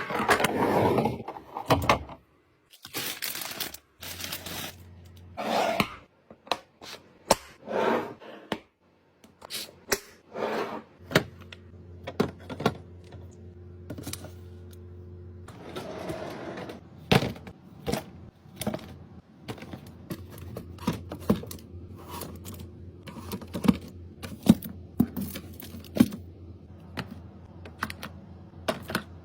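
Irregular clicks, taps and knocks of containers being handled and set down during a fridge restock, with short rustles in between.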